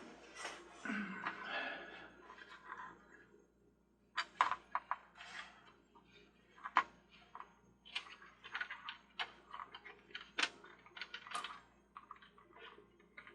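Small plastic parts being handled and fitted together by hand: a short rustle, then irregular clicks and taps.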